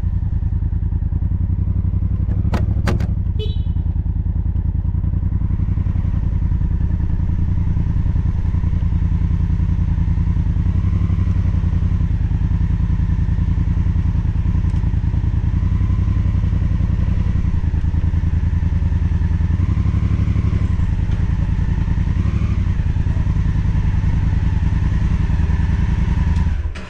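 Honda Africa Twin's parallel-twin engine running steadily at low speed, with a couple of sharp clicks a few seconds in. The engine is switched off near the end and the sound drops away abruptly.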